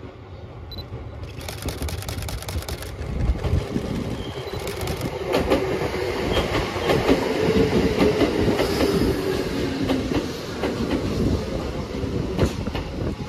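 Keikyu 1500 series electric train approaching and passing close by, growing louder as it nears. As the cars go by, the wheels rumble and click over the rail joints, with a steady droning tone from under the cars.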